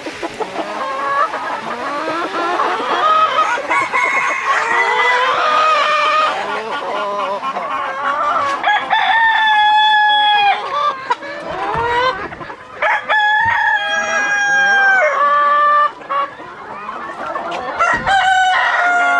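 A flock of chickens clucking in many overlapping calls. Roosters crow twice about halfway through, each crow a long held call that falls away at the end.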